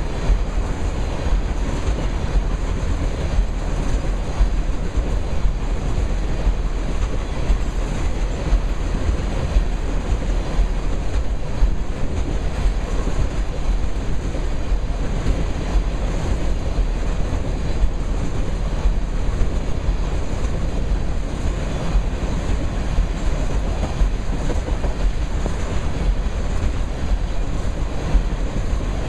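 Tank cars of a freight oil train rolling past at close range: a steady rumble of steel wheels on rail with frequent small clicks and knocks.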